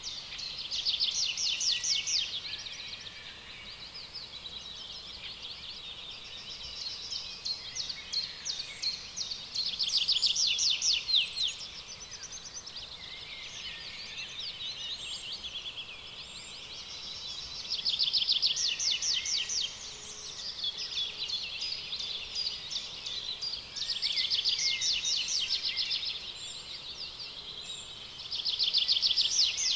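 Rainforest animal chorus of high-pitched, rapid trills over a steady background hum. The trills swell into loud bouts every six to eight seconds.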